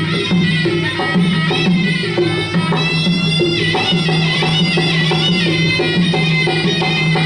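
Traditional Kun Khmer ring music: a shrill quadruple-reed oboe (sralai) plays a winding, gliding melody over a steady low drone and drum strokes.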